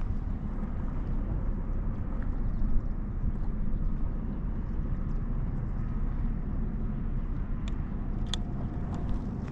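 Wind buffeting the microphone as a steady low rumble, with a couple of sharp clicks near the end.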